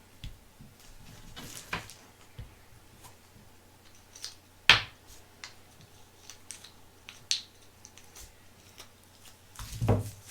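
Scattered light clicks and taps from small objects being handled by hand, with one sharp click a little under halfway and a short burst of knocks and rustling near the end.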